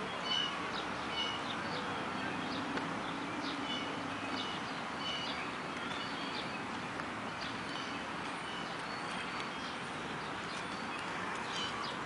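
Small birds chirping in short, repeated high notes, scattered through the whole stretch over a steady background hiss.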